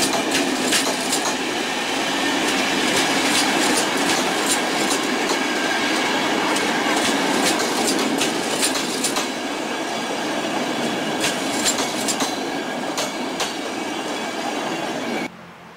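PKP Intercity passenger coaches rolling past on the rails during shunting: a steady rumble with irregular clacks of the wheels over rail joints and some wheel squeal. The sound cuts off sharply near the end.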